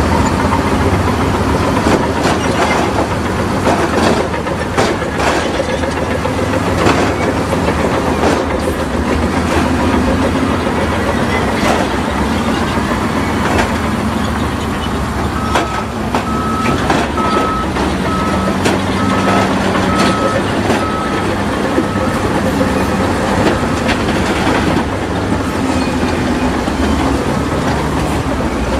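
Diesel engine of heavy earthmoving machinery running steadily under load, with repeated clanks and knocks of tracks and rock. About halfway through, a reversing alarm starts beeping and keeps on for about eight seconds.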